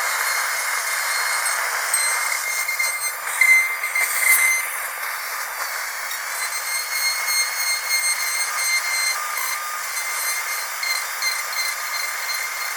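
Dentist's drill running with a steady high-pitched whine over a hiss, briefly louder about three to four and a half seconds in.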